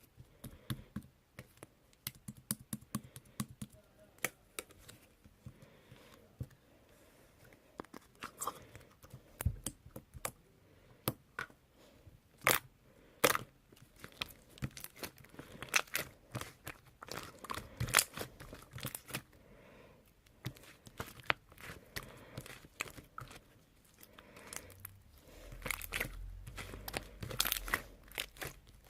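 Hands handling crinkly wrapping, with irregular tearing, crinkling and many sharp clicks and knocks. The handling grows busier near the end, with a low rumble underneath.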